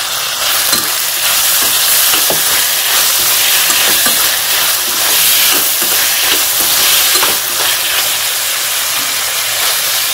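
Chopped tomatoes, onions, garlic and cashews sizzling in hot oil in a stainless steel pan while a spatula stirs them, with light knocks of the spatula against the pan. The tomato and onion are being sautéed for the masala paste.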